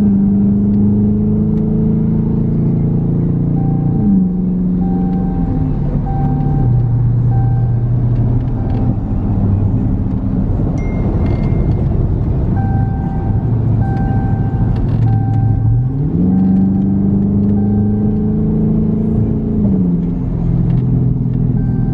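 2018 Dodge Charger R/T's 5.7-litre HEMI V8 running through Super 10 mufflers with the resonators deleted, under way: the engine note climbs at the start, steps down in pitch as it shifts through the gears, then climbs again about sixteen seconds in and falls away. A short beep repeats about once a second during parts of it.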